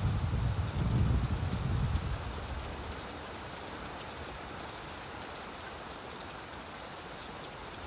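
Steady rain hissing on surfaces, with a low rumble of distant thunder that dies away about two seconds in.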